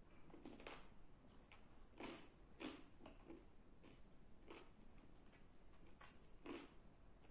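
Chewing a mouthful of cheesy chicken and garlic naan pizza close to the microphone: soft, irregular mouth clicks and smacks, a few each second.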